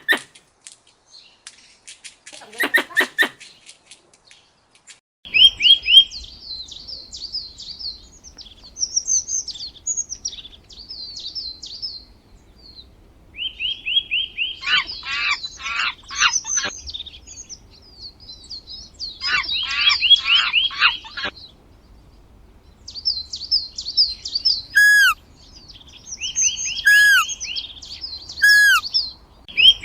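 Small birds chirping and twittering in quick high runs, in bursts with short gaps. Near the end there are three separate clear whistled notes. A brief lower animal call comes about three seconds in, before the chirping starts.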